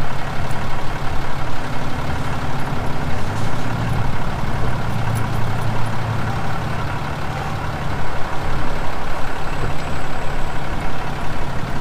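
A car engine running steadily, a continuous low hum.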